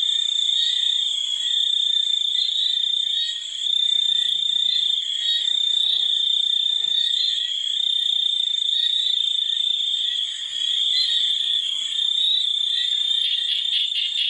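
Steady, shrill chorus of calling frogs and insects, with small regular rises about every half second or so. A fast pulsing trill joins near the end.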